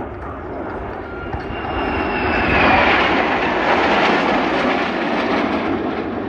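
An aircraft's engine flying past, growing loud about two and a half seconds in and then fading away, with a whine that slides down in pitch as it passes.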